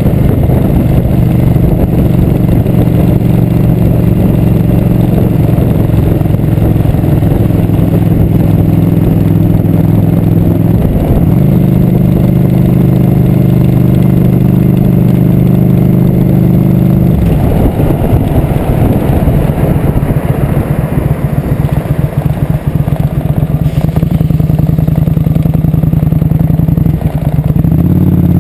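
Motorcycle engine running as the bike is ridden, a loud steady drone. The engine note breaks briefly about eleven seconds in, drops and gets rougher about two-thirds of the way through, and comes back strongly near the end.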